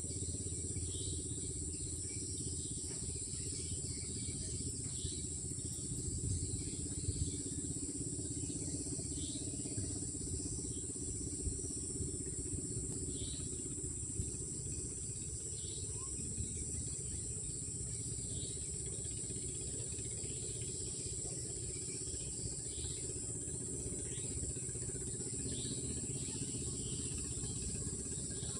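Night insect chorus of crickets, a steady high-pitched trill, with short faint high calls every few seconds and a low rumble underneath.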